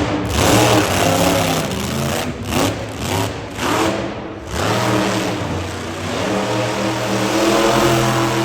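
Monster truck engine revving in repeated throttle blips, then running at a steady pitch over the last few seconds.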